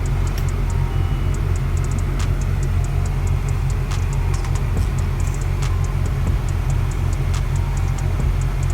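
Honda H23 VTEC inline-four engine idling steadily, heard from inside the cabin with the AC blower on full, under a light, irregular ticking that often comes in quick runs.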